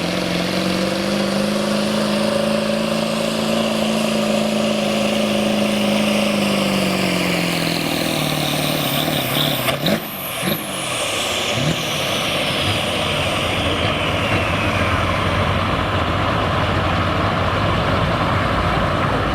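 Diesel pickup truck engine running hard under load at a pull, its pitch steady then sagging. About ten seconds in it cuts back sharply, and a high whistle falls steadily in pitch over several seconds while the engine keeps running loudly.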